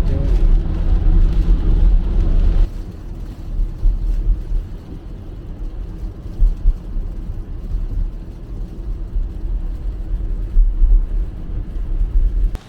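Tesla Model Y driving on a highway: a steady low rumble of tyre and road noise. It drops to a quieter rumble about three seconds in.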